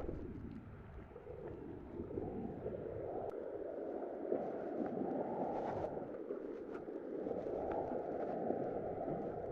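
Sea waves washing on the shore, a continuous rushing noise that swells and eases over a few seconds.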